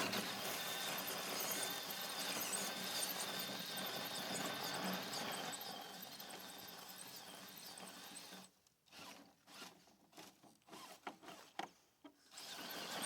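Electric motor and geared drivetrain of a scale RC crawler truck whining steadily under throttle as it works over rocks, then stopping and giving a few short throttle blips near the end.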